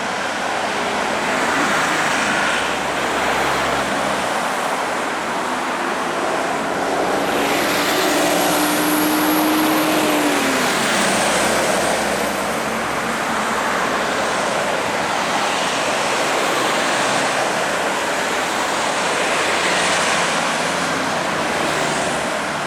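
Volvo FH16 700 heavy-haulage truck pulling a low loader uphill, its engine and tyres making steady road noise. A steady engine tone drops in pitch about ten seconds in.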